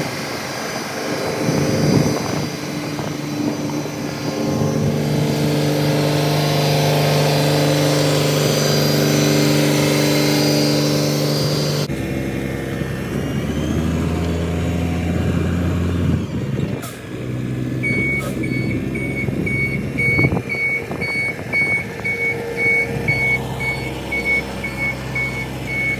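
2005 Mack Granite dump truck's diesel engine running, held at raised revs for several seconds. After a cut it runs lower, and its reversing alarm beeps steadily in the last third.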